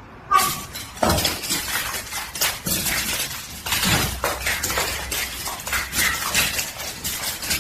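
Rapid, repeated clattering and clinking of hard objects.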